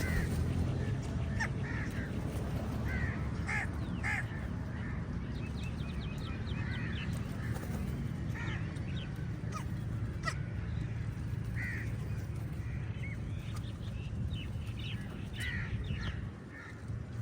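A flock of crows cawing, many short calls following and overlapping one another, over a steady low rumble.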